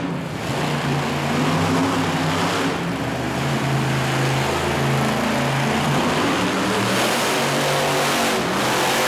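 Monster truck engine revving hard at high throttle, loud and continuous, its pitch rising and falling as the throttle changes.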